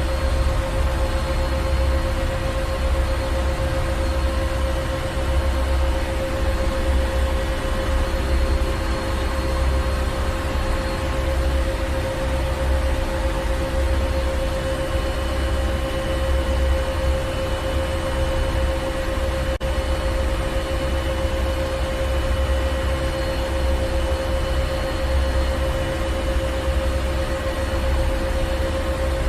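Machinery in a ship's engine room running steadily: a deep rumble with a constant hum over it and a wash of mechanical noise, unchanging throughout.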